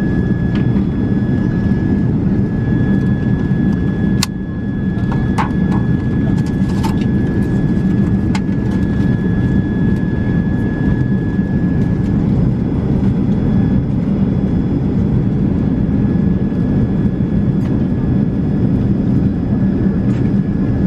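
Airliner cabin noise in flight: a steady low rumble of engines and airflow with a thin steady whine. A few sharp clicks sound between about four and eight seconds in.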